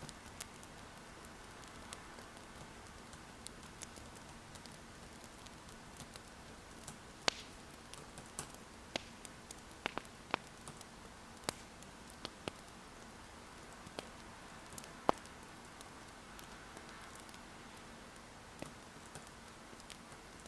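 Wood fire crackling: irregular sharp pops and snaps, some louder than others, over a soft steady hiss.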